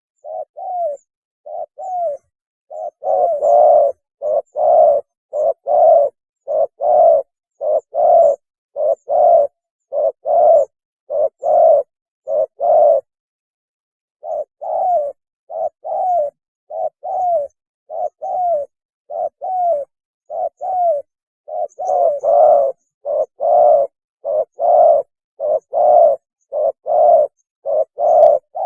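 Spotted dove cooing: a long run of short, repeated coo notes, about one to two a second, with a pause of about a second midway. It is the species' mating call.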